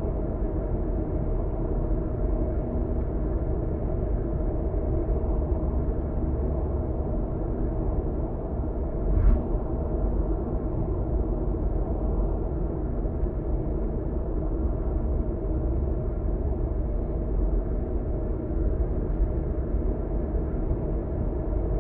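Car cabin noise while driving: a steady low rumble of tyres on the road and the engine, with one short thump about nine seconds in.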